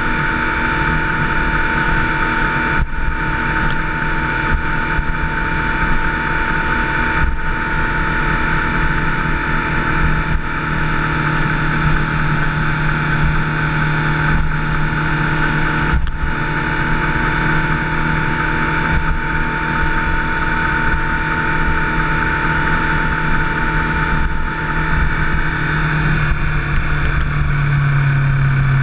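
Motorcycle engine running steadily at cruising speed, with a few brief dips in the note. The pitch drops slightly near the end as the engine slows.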